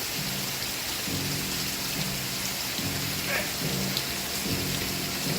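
Steady rain falling on a surface, an even hiss throughout. Under it, low repeated background music notes from an old TV soundtrack.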